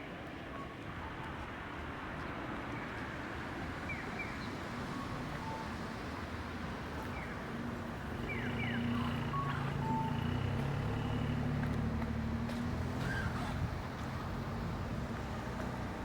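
Outdoor park ambience with a steady background hum and short high chirps scattered throughout. A motor vehicle's engine grows louder about halfway through and runs for several seconds before easing off.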